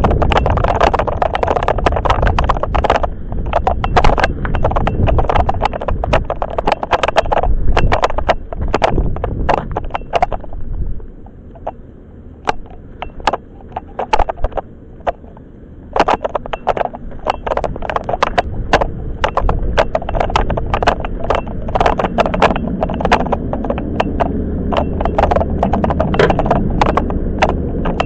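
Toyama Chiho Railway 10030-series electric train running, heard from inside the car: wheels clacking over rail joints in quick sharp knocks over a low rumble. The rumble drops for a few seconds near the middle, with only scattered clacks, then comes back.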